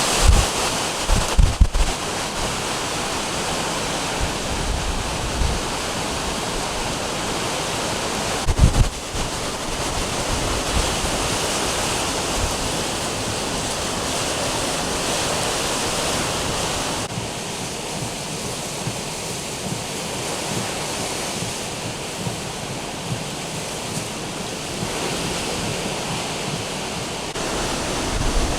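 Hurricane winds and heavy surf: a steady rush of wind and breaking waves, with gusts buffeting the microphone about a second in and again near nine seconds.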